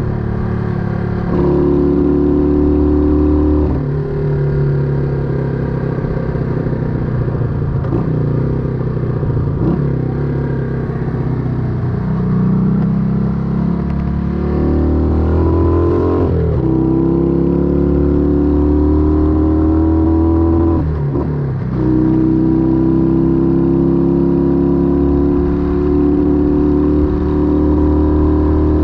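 1968 Honda Dream CD250 motorcycle's engine and exhaust under way, its note climbing steadily as it pulls through the gears. The pitch drops sharply at each upshift, three times.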